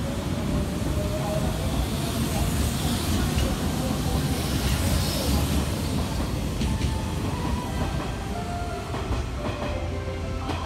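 Hanshin 8000 series electric train running past along a station platform: a steady rumble of wheels and motors, with a few sharp clacks over rail joints in the second half as the last cars go by.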